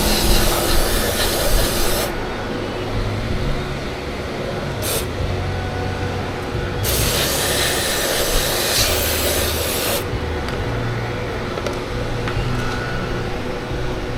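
Aerosol brake cleaner hissing in bursts onto the brake caliper: a spray for the first two seconds, a short puff about five seconds in, and a longer spray of about three seconds in the middle. Rubbing and scrubbing noises fill the gaps between sprays.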